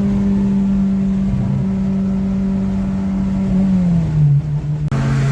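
Honda Civic's swapped K-series four-cylinder engine droning at steady revs, heard from inside the cabin while driving. About three and a half seconds in the pitch falls as the revs drop, and near the end there is a brief break before it settles at a steady lower drone.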